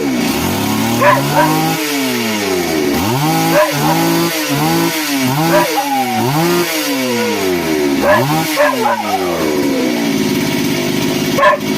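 Small engine revved repeatedly in quick blips, its pitch shooting up and sliding back down each time, then settling to a steady idle near the end.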